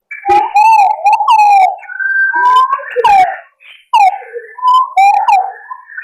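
Green pigeons (punai) calling as a lure recording: a string of wavering, gliding whistles, several overlapping, starting suddenly out of silence.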